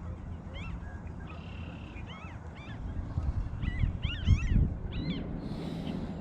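Birds calling: many short, high chirps in quick succession, thickest in the middle, over a low rumble. A brief hiss comes near the end.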